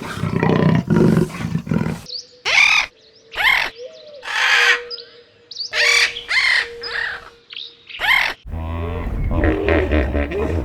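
Animal calls edited one after another: a roar-like call for the first two seconds, then about seven short bird chirps over a faint steady tone, then a low, rumbling animal sound in the last two seconds.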